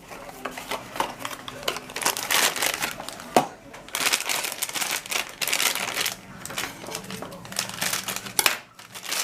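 Blind-box packaging of a Funko mystery minifigure crinkling and tearing as it is handled and opened, an irregular run of crackles with one short lull near the end.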